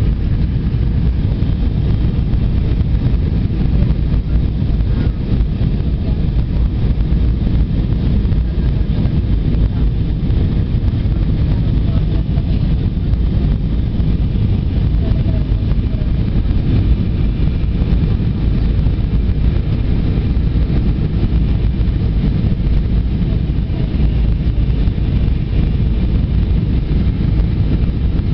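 Steady low rumble of engine and airflow noise inside the passenger cabin of an Airbus A320 in flight.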